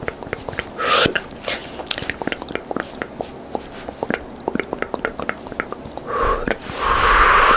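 Close-up ASMR mouth sounds: quick wet tongue and lip clicks, several a second, broken by a louder breathy whispered sound about a second in and again near the end.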